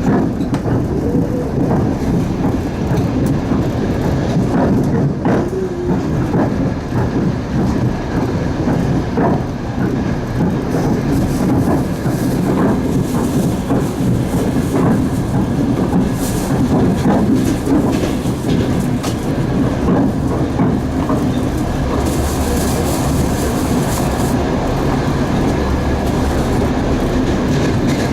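Passenger train running, heard from the carriage window: a steady rumble of wheels on rails with irregular clacks as the wheels cross rail joints. A stretch of louder hiss comes about three-quarters of the way through.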